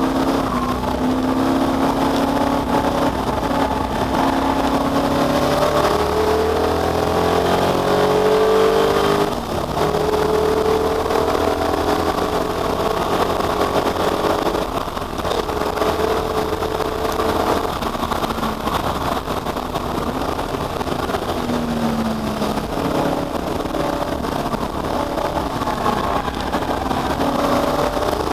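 Ford Capri V8 race car engine under hard acceleration, its pitch climbing through each gear and falling at the shifts. There is a brief lift off the throttle about nine seconds in.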